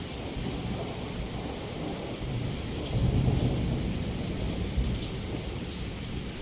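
Heavy rain pouring steadily, with a low rumble of thunder that swells about three seconds in and fades over the next couple of seconds.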